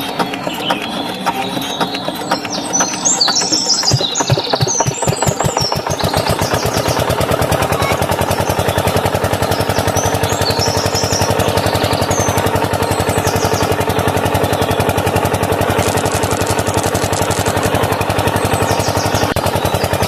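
Small miniature diesel engine starting about four seconds in: its firing beats quicken and then settle into a steady, fast running rhythm. Before it starts there are light clicks.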